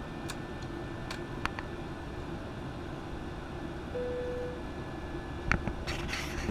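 Steady low rumble of a Boeing 737-900's cabin in flight, with a few sharp clicks and knocks, a short steady tone about four seconds in, and a brief hiss near the end.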